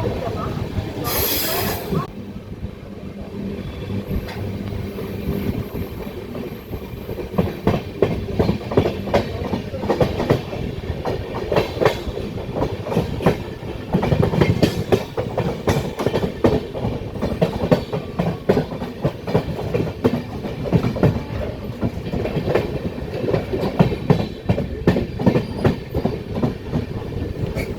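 Passenger express train running on track, its wheels clacking irregularly over rail joints above a steady rumble. There is a brief hiss about a second in.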